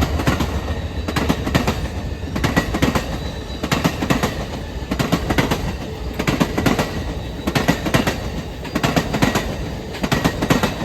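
Amtrak Superliner passenger cars of the California Zephyr rolling past at speed, wheels clacking over rail joints in clusters of clicks every second or so under a steady rumble. A faint high whine runs through it.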